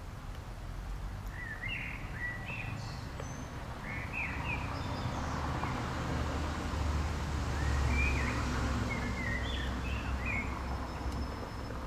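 Small birds chirping in short, scattered calls, over a low rumble that swells to its loudest about eight seconds in and then eases off.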